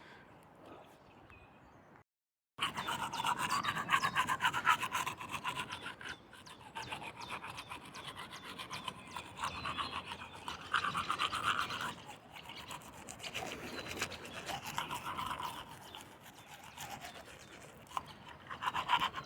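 Teeth being brushed with a toothbrush: rapid, uneven back-and-forth scrubbing strokes that start about two and a half seconds in, after a short stretch of faint sound.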